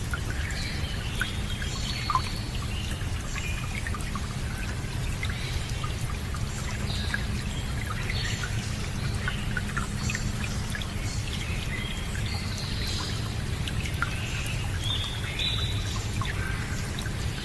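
Steady rush of running water with birds chirping throughout in short high notes.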